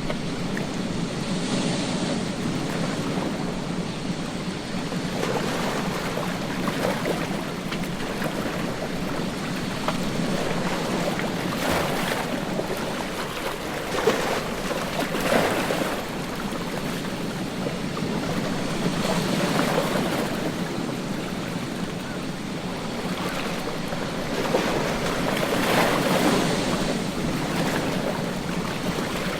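Ocean surf breaking on a beach: a constant wash of water noise that swells as each wave breaks, every few seconds, then eases off.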